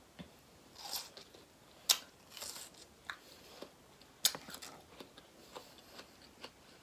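A person eating close to the microphone: wet biting and chewing with scattered sharp, crunchy clicks, the loudest about two and about four seconds in.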